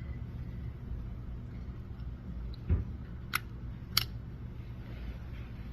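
Three short, sharp clicks about two-thirds of a second apart over a steady low hum.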